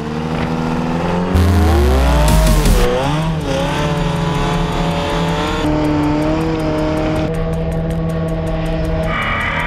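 Big racing diesel truck engine revving. Its pitch swings up and down a few times about one to three seconds in, then holds steady at a few set speeds that step from one to the next.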